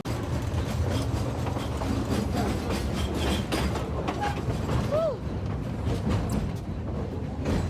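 Passenger train car rolling along the rails: a steady low rumble with rattling and clatter, and a brief rising-and-falling squeak about five seconds in.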